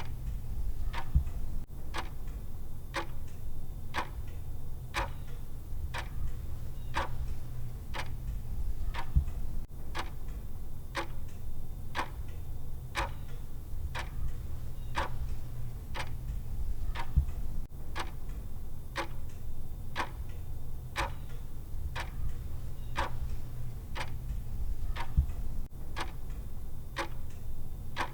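Clock-style tick of a countdown timer, one sharp tick every second, evenly paced, over a steady low hum.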